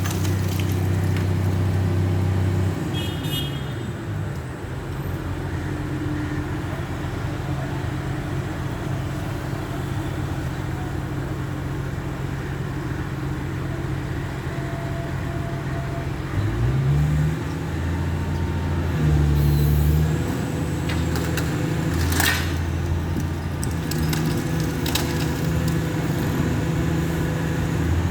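Engine of a large demolition machine running. Its revs drop about three seconds in and climb again around sixteen seconds, then hold steady. There is a single sharp knock a little after twenty-two seconds.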